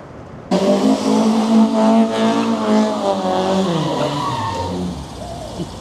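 A car engine revving hard through a loud exhaust: it starts abruptly about half a second in, holds a steady high note, then the pitch falls away over a second or two as the revs drop.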